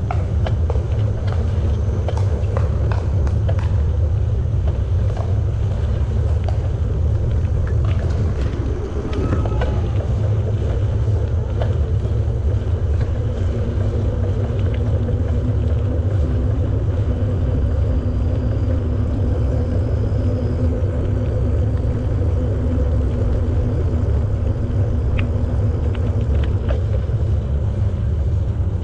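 Steady low rumble of a bicycle being ridden along a paved greenway trail, with scattered light clicks and rattles.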